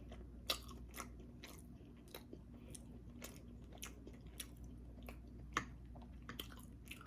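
Faint, close-miked chewing of soft food, with small wet mouth clicks and smacks every half second or so.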